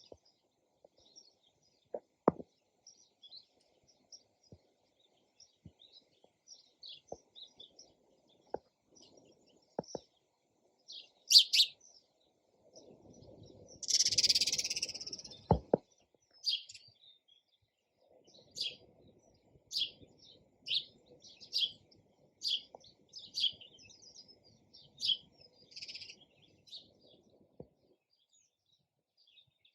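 Sparrows chirping: short, scattered high chirps, a harsher grating call about 14 s in, then a run of chirps about one a second in the second half. A few faint low knocks sound among them.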